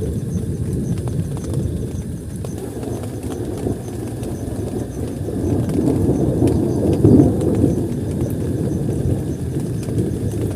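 Heavy rain falling on a tent, a dense low rush of drops that swells louder about six to seven seconds in.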